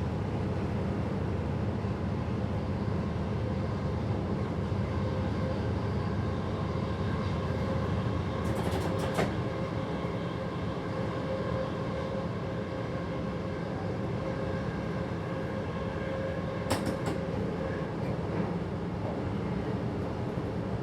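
Train running along the line, heard from the driver's cab: a steady low rumble with a steady hum, and a few sharp clicks from the wheels over the track about halfway through and again near the three-quarter mark.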